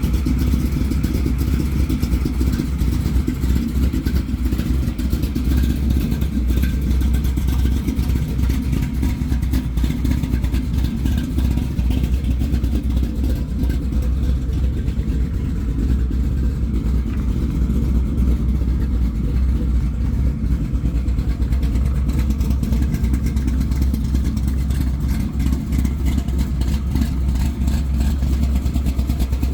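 Engine of a 1969 Chevrolet C10 pickup running steadily, a constant deep low rumble.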